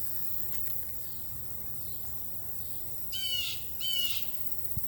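A bird calls twice in quick succession about three seconds in, short high sweeping notes, over a steady background hiss.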